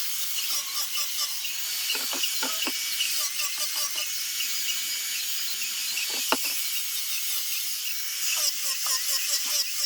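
High-speed rotary power tool sanding zelkova root wood: a steady high-pitched whine whose pitch wavers as it bears on the wood, with a few sharp knocks.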